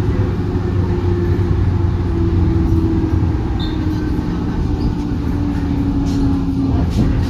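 103 series electric train running, heard from inside the car near the line breaker: a steady heavy rumble of wheels and running gear, with a whine that falls slowly in pitch.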